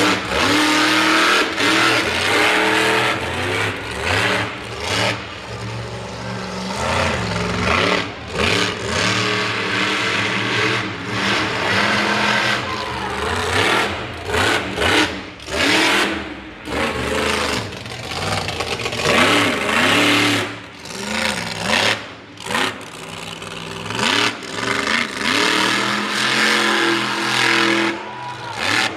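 Mega truck engine revving hard, its pitch climbing and falling over and over, with brief drops in loudness where the throttle is let off between bursts.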